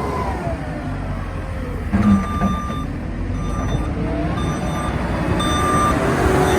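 JCB 215E backhoe loader's diesel engine running, its revs dropping at first. About two seconds in comes a low clunk, then the reversing alarm beeps roughly once a second as the machine is put in reverse, while the engine revs pick up again near the end.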